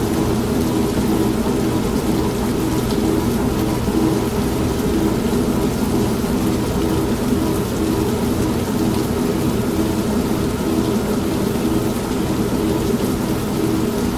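An old washing machine running with a steady motor hum that pulses quickly and evenly, mixed with steady rain.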